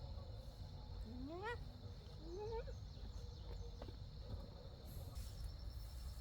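An animal calls twice, each call rising in pitch, over a steady high insect buzz.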